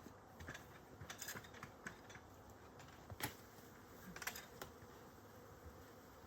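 Scattered light clicks and knocks of wooden beehive equipment being handled, several in quick succession with the sharpest a little past three seconds in, over a faint steady background.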